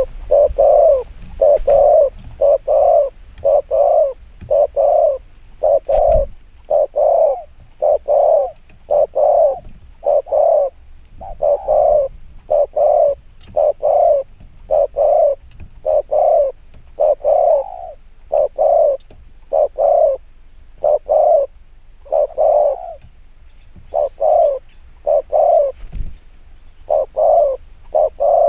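Spotted dove cooing in a fast, unbroken run of short low coos, about one to two a second. This is the rapid 'kích bổi' coo that a decoy dove uses to provoke wild doves.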